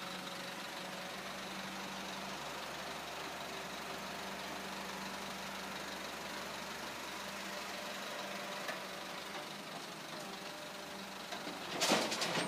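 FAW heavy-duty dump truck's diesel engine idling steadily. Near the end comes a loud run of sharp clattering knocks.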